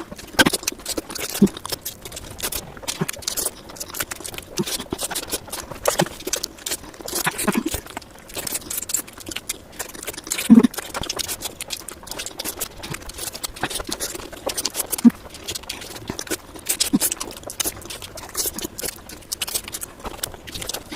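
Close-miked eating sounds of a person chewing spicy fish curry with rice: a steady run of irregular wet clicks and lip smacks.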